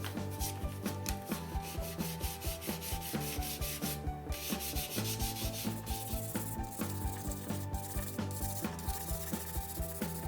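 Rhythmic sanding or rubbing strokes on the rusty clamp, about three a second, under background music with a steady beat.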